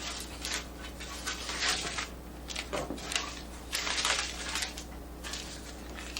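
Irregular rustling and clattering of household clutter being handled and tidied, in uneven bursts of a second or so each.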